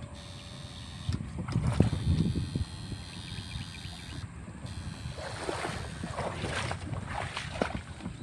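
Water sloshing and splashing in uneven bursts, with wind buffeting the microphone.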